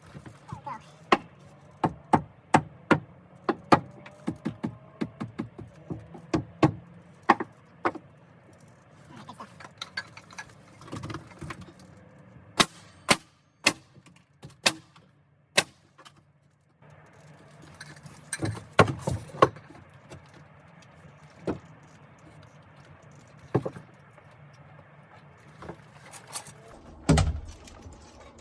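Deck boards being nailed down onto a porch frame: runs of sharp, separate strikes, several a second at times, with gaps between runs. A faint low steady hum sits underneath.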